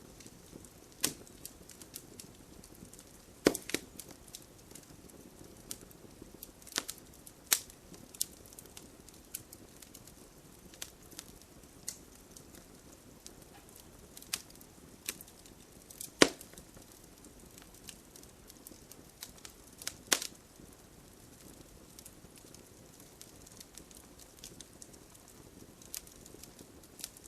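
Campfire crackling: a low steady hiss with irregular sharp pops and snaps, a few of them much louder than the rest.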